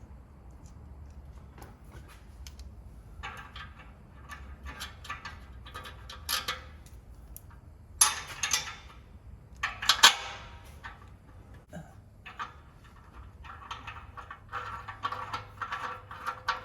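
Metal clinking and scraping as a new muffler and exhaust pipe are fitted up under the car, with two loud clanks about 8 and 10 seconds in and a run of small clicks from clamp hardware near the end.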